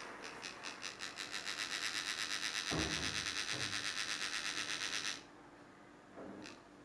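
A Micromax mobile phone's speaker giving out a fast, evenly pulsing high electronic buzz, about seven pulses a second, that cuts off suddenly about five seconds in. There is a low thump about halfway through.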